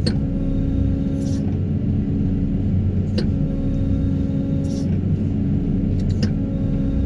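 Excavator engine and hydraulics running steadily, with a few short sharp clicks about three seconds apart.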